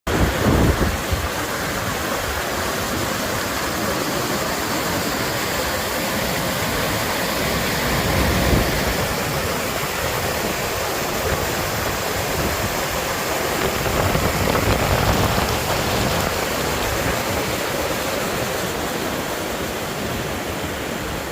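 Steady rush of water, a constant even hiss with a few brief low rumbles.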